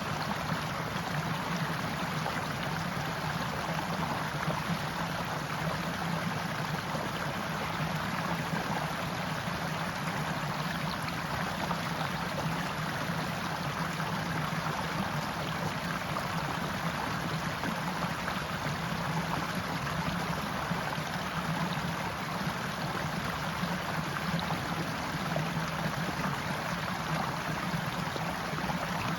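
Forest stream running steadily over rocks, a constant even rush of water.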